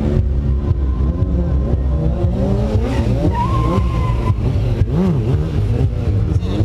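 Stunt motorcycle engine revving up and down repeatedly, with a tyre squealing for about a second near the middle.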